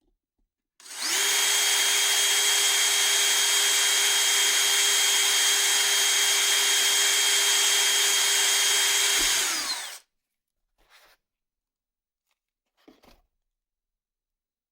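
A small electric power tool runs at a steady high speed for about nine seconds, then winds down and stops. Two faint knocks follow near the end.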